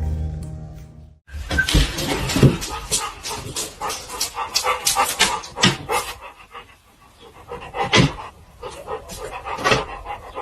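A dog panting rapidly, in quick rhythmic breaths about three or four a second, with two louder sharp sounds later on. Background music fades out in the first second.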